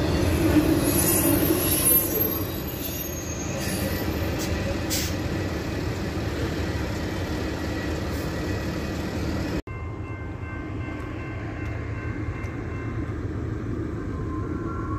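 Freight train rolling past, wheels rumbling on the rails with thin high wheel squeal in the first few seconds. The sound breaks off abruptly about two-thirds of the way through into a quieter, duller rumble.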